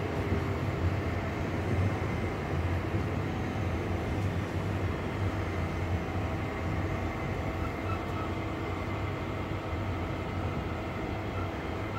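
Interior running noise of a Class 323 electric multiple unit under way: a steady low rumble from the wheels and running gear.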